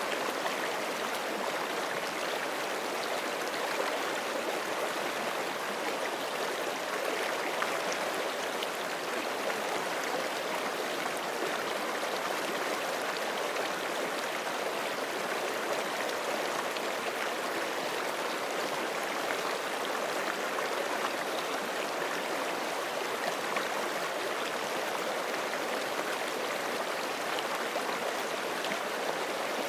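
Forest creek running over rocks: a steady, even rush of flowing water.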